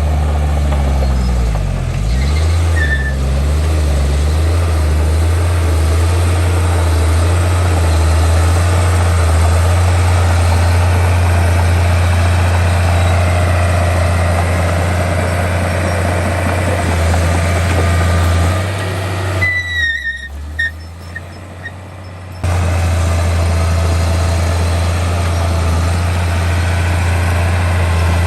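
Heavy diesel engine of an earthmoving machine running steadily and loud, its pitch dipping and rising again in the first few seconds. About twenty seconds in the engine sound drops away for a few seconds, with a brief falling high squeal, then comes back suddenly.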